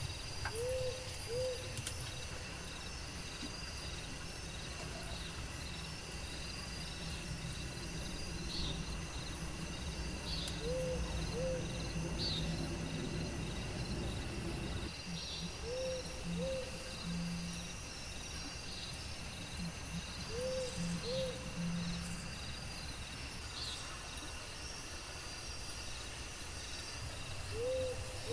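Rainforest night-style ambience: insects droning steadily at a high pitch with short chirps, while a low two-note call repeats five times at uneven intervals. A low rumble runs underneath.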